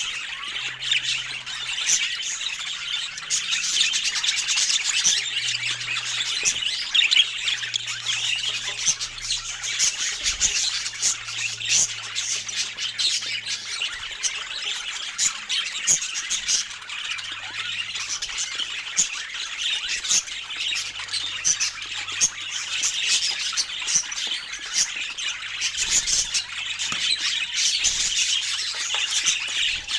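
A group of parakeets chattering: a dense, unbroken stream of overlapping chirps and squawks.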